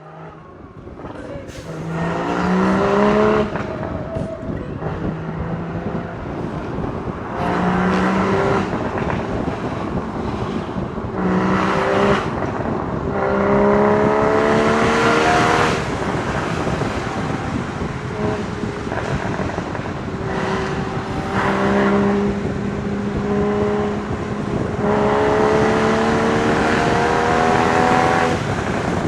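Porsche Boxster Spyder 981's 3.8-litre flat-six exhaust while driving: the revs climb in several hard pulls, each broken off by a drop in pitch at a gear change, with one stretch held at a steady cruise. Wind noise runs underneath.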